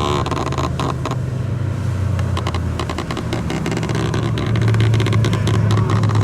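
A car engine running steadily, growing louder about four and a half seconds in, with sharp clicks over it.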